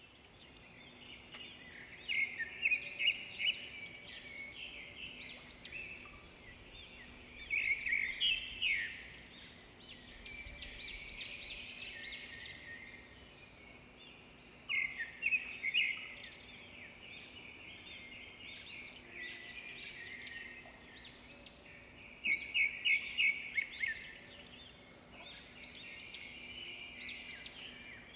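Birds chirping in repeated short bursts of rapid high notes, over a faint steady hum.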